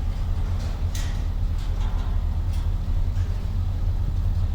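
A vehicle engine running with a steady low hum, and a faint click about a second in.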